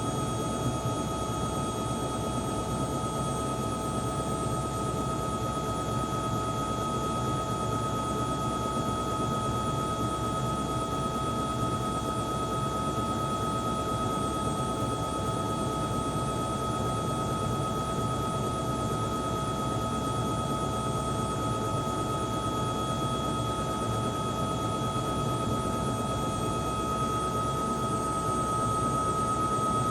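Helicopter running steadily: a constant high whine over an even rotor and engine noise, growing a little louder near the end.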